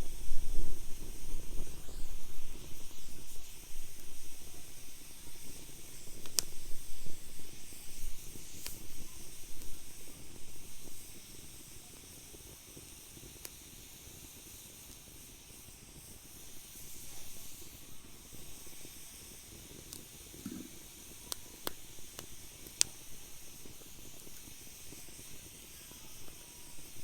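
Wood fire burning in a fire pit: a steady hiss with a few sharp crackling pops scattered through, and a low rumble that fades about halfway.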